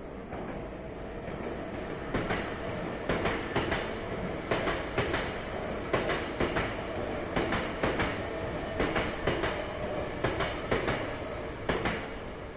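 Hankyu electric train passing over a level crossing, its wheels clattering over the rail joints in repeated clusters of clacks as each bogie goes by.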